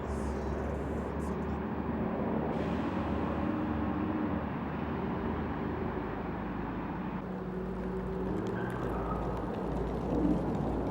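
2010 Dodge Charger SXT's 3.5-litre V6, its resonator removed, running at a steady cruise as heard from inside the cabin: a steady low exhaust hum over road noise, with no drone.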